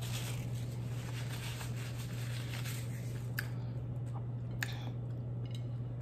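Closed-mouth chewing of food: faint moist mouth sounds with a few short, wet clicks, over a steady low hum.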